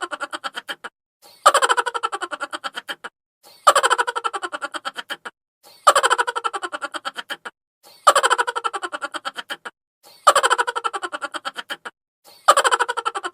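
Looped 'chipmunk' laugh sound effect: a sped-up, high-pitched cackle of rapid pulses that starts loud and falls in pitch, repeating the same way about every two seconds, six times.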